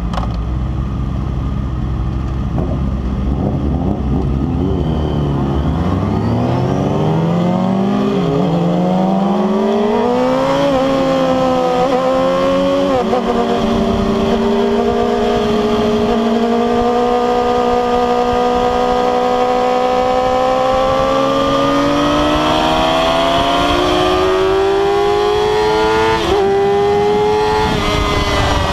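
Inline-four sport bike engine heard from onboard: it idles, then pulls away and accelerates up through the gears. The pitch climbs steadily, with a sharp drop at each upshift, about three times.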